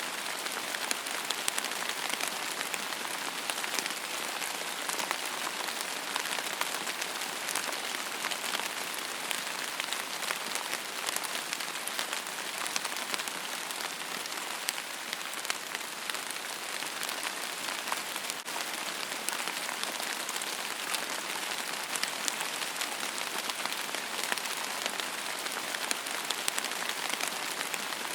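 Steady rainfall on a surface: an even hiss of rain with many individual drops pattering.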